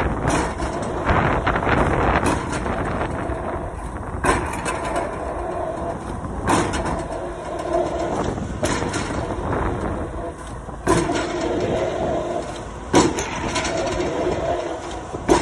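Excavator-mounted drop hammer striking a square concrete pile, with a sharp blow about every two seconds over the steady running of a diesel engine.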